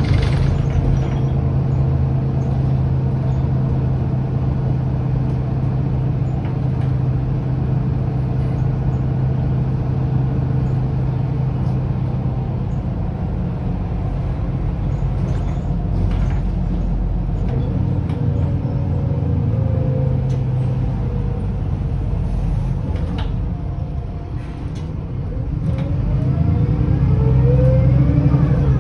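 Mercedes-Benz O530 Citaro city bus, with an OM906hLA diesel engine and a ZF Ecomat automatic gearbox, running with a steady engine hum that eases off through the middle, with a few knocks. After a brief dip near the end, it pulls away with a rising gearbox whine and gets louder.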